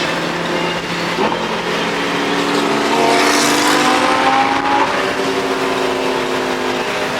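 Supercar engine accelerating under load: its pitch climbs for about two seconds, drops sharply at a gear change about five seconds in, then carries on pulling.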